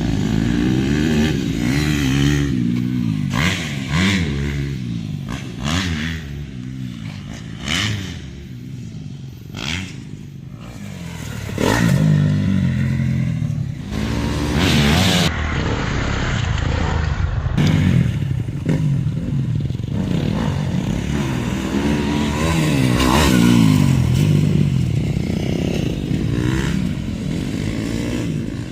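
2017 Yamaha YZ250F motocross bike's four-stroke single-cylinder engine revving up and dropping back over and over as it is ridden around a dirt track. It grows fainter a third of the way in, then comes back louder about twelve seconds in.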